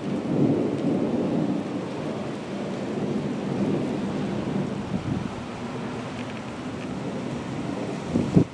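Low, noisy rumble of a thunderstorm moving in. It jumps up suddenly at the start and eases off slowly over several seconds.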